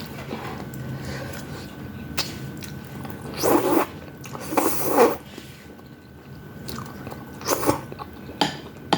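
A person eating udon noodles with vegetables and meatballs close to the microphone: wet chewing, with a few louder short mouth noises in the second half.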